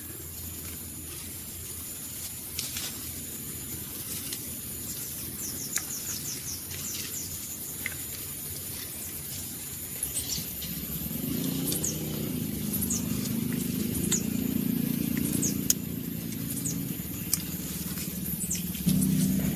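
Outdoor countryside ambience: a steady high-pitched insect drone with scattered short bird chirps and a few clicks. From about halfway a louder low drone joins in and grows.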